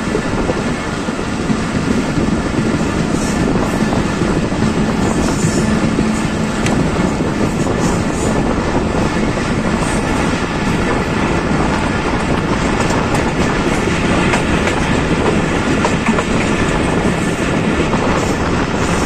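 Pakistan Express passenger train running along the line, heard from an open coach window: a steady rolling rumble of the wheels on the rails with occasional clicks.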